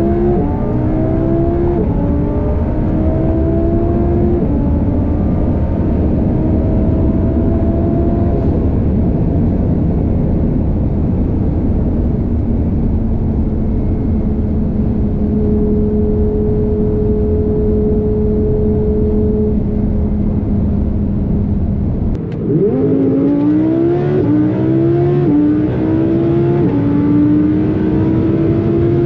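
Twin-turbo 5.2-litre V10 of a tuned Audi R8 pulling hard at high speed, its pitch climbing in steps with each upshift, then holding steady at a high cruising speed over heavy wind and tyre noise. About 22 seconds in the power briefly drops off, then the engine pulls hard again, its pitch rising through several quick upshifts about a second apart.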